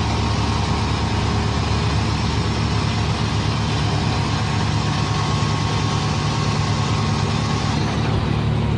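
A large vehicle engine running steadily at an even, low pitch.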